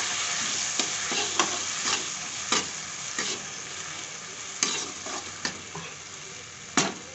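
Ground mustard paste with tomatoes and spices sizzling in hot oil in a non-stick kadhai as the masala is fried, while a spatula stirs it with repeated scrapes and knocks against the pan, one louder knock near the end. The sizzle slowly dies down.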